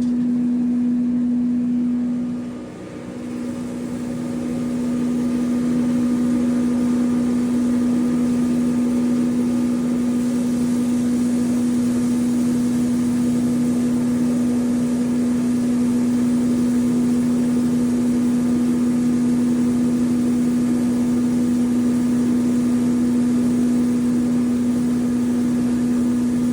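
10 HP maize granule-making grinder machine running with a loud, steady hum. Its level dips briefly about two and a half seconds in, then holds steady.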